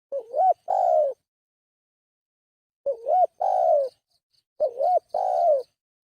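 Spotted dove (tekukur) cooing, played as a lure call: three phrases, each a quick wavering note followed by a longer coo that falls in pitch.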